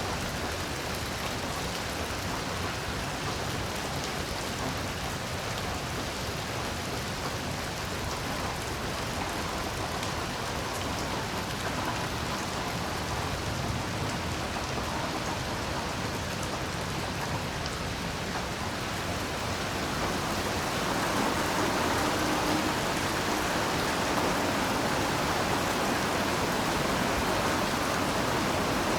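Heavy rain falling steadily, an even hiss with no breaks, growing somewhat louder about two-thirds of the way through.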